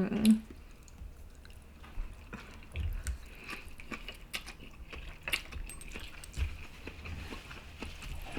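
Someone eating from a takeout bowl: chewing, with scattered faint clicks and taps of a utensil against the container.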